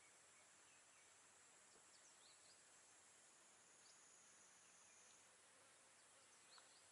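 Near silence: a faint steady high-pitched hiss, with a few faint short chirps scattered through it.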